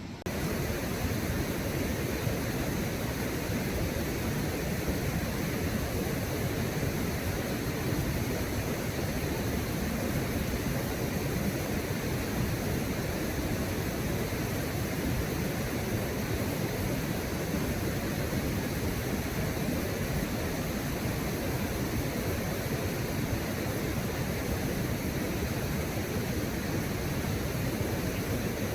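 Steady rush of fast-flowing river water or a waterfall, a constant even roar that comes in abruptly at the start.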